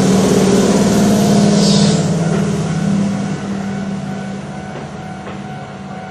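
Keihan electric train running past a level crossing: a rumble with a steady low hum, loudest over the first two or three seconds and then fading as it moves away. A brief hiss about two seconds in.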